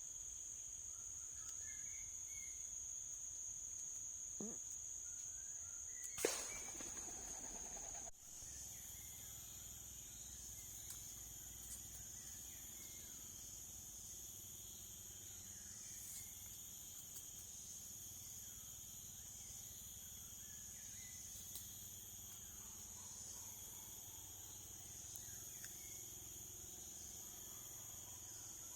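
Steady, high-pitched chorus of insects, crickets among them, with a single sharp click about six seconds in.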